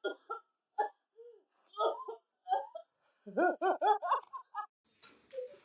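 A person laughing in short bursts, breaking into a quick run of peals about three seconds in.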